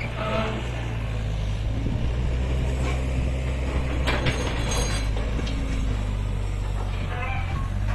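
Heavy construction machinery's diesel engine running steadily with a deep hum, with a burst of metallic clanks and rattles about four seconds in.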